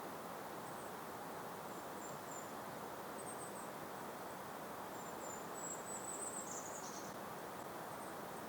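Gentle breeze with faint, very high-pitched bird chirps scattered through it; the longest is a thin trill about six seconds in.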